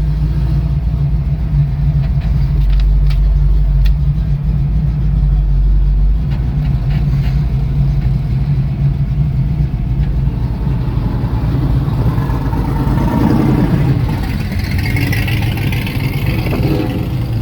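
A 1965 Mustang fastback driving, its swapped-in 1989 Ford 5.0 L V8 running at a steady pace with a continuous low engine drone.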